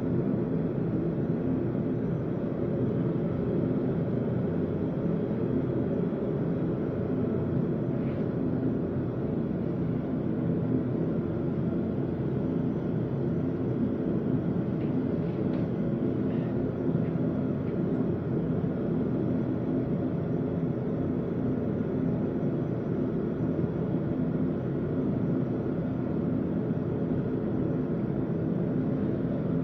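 A forge running with a steady, even rushing hum, with no hammer blows.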